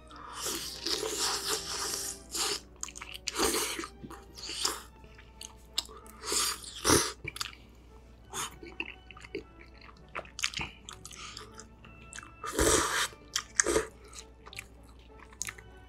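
Chewing and biting of chewy Korean rice cakes (tteok) in spicy tteokbokki sauce with melted cheese: irregular wet mouth sounds and smacks, with louder bites about a second in, around seven seconds and near thirteen seconds.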